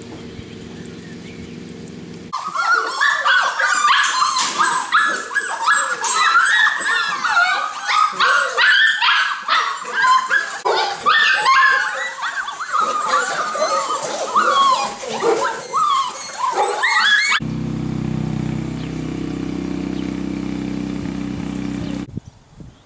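Puppies yipping and whimpering for about fifteen seconds, a rapid run of high, rising and falling yelps. A steady low hum comes before the yelps and returns for several seconds after them.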